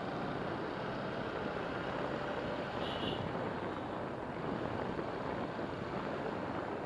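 Steady rumbling noise of riding along a road, with wind and road noise on the microphone.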